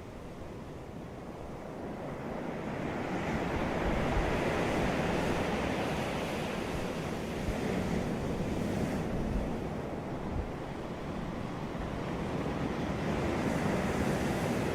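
Ocean surf washing onto a beach, a continuous hiss of breaking waves. It swells about two seconds in, eases slightly midway, and builds again near the end.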